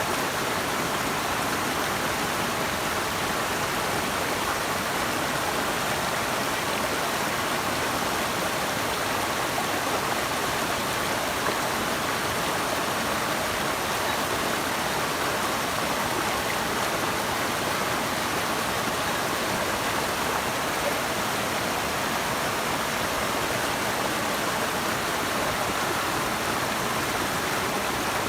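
Flowing water rushing steadily: a continuous, even hiss with no breaks or changes.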